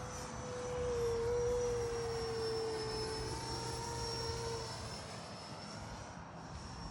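Electric ducted-fan RC jet in flight, a steady high whine that swells about a second in and fades slowly as the model passes and moves away.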